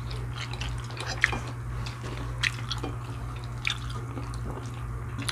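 Wet close-up eating sounds: chewing and lip smacking, with a few sharp wet clicks about once a second, over a steady low hum.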